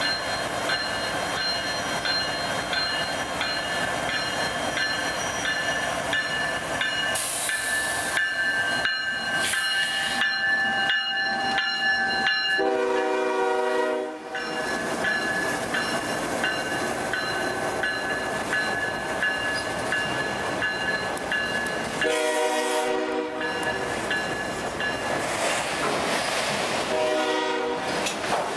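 Diesel freight train rolling past, its wheels and cars making a steady rumble with a steady high-pitched whine over it. The locomotive's air horn sounds three blasts, one about halfway through and two near the end.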